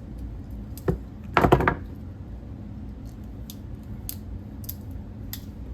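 Cutters snipping through a rusty treble hook on a lure: a sharp click, then a short loud clatter of metal clicks about a second and a half in, followed by lighter ticks every half second or so.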